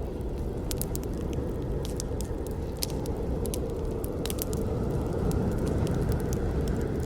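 Campfire burning: a steady low rush of flames with frequent, irregular sharp crackles and pops from the burning wood, growing slightly louder about five seconds in.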